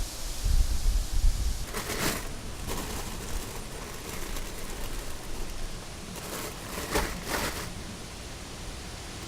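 Steady outdoor hiss with wind buffeting the microphone in the first second or so, then a few short rustles, one about two seconds in and a pair near the end.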